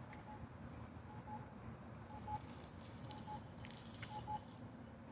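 Accessible pedestrian crossing signal beeping, a short double beep repeating about once a second.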